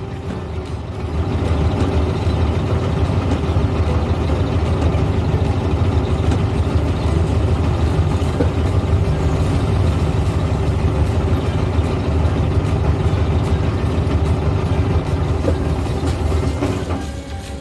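1970s Volkswagen engine running steadily as the car is driven, a low rumble heard from inside the car, a little louder from about a second in.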